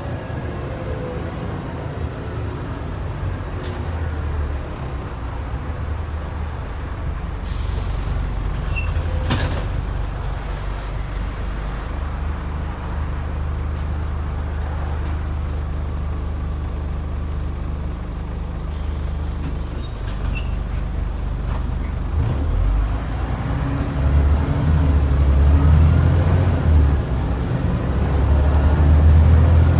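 Scania N94UD double-decker bus with its DC09 diesel engine running, with air brake hiss about a quarter of the way in and again around two-thirds in. The engine gets louder over the last few seconds as the bus pulls harder.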